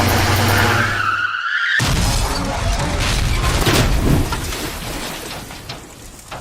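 Cartoon sound effects: a toy vehicle's engine hums steadily, a brief rising squeal cuts in about a second in, then a crash with scattered clattering knocks that slowly dies away.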